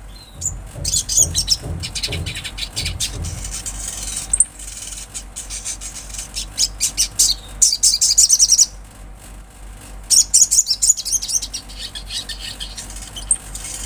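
Olive-backed sunbird singing: quick runs of high, thin chirps in bursts of a second or two, broken by short pauses.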